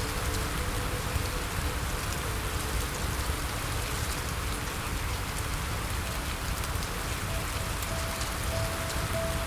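Steady rain falling on a surface: a continuous hiss scattered with small drop ticks. Soft held music notes lie faintly beneath it, with one note entering near the end.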